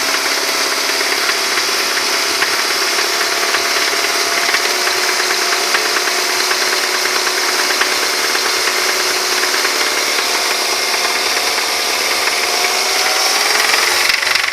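Car engine held at raised revs, running steadily with a rapid knock throughout. The owner suspects worn big-end bearings in the bottom end, having ruled out the timing chain, cam and tappets.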